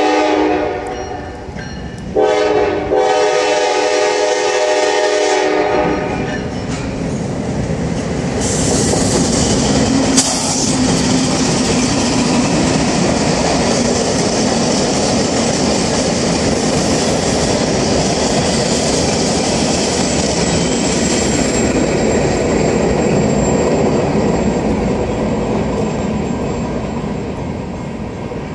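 Freight train's air horn sounding a chord that breaks off about a second in, then sounds again in a second long blast. After that the train passes close by with a steady rumble and clatter of freight cars on the rails, easing off near the end.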